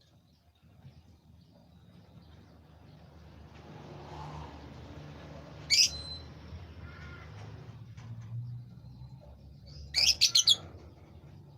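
A songbird calling: one sharp high chirp about six seconds in, then a quick run of four chirps near the end, over a low steady hum.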